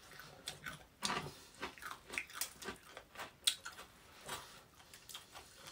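A person chewing food up close, with scattered small wet clicks and lip smacks.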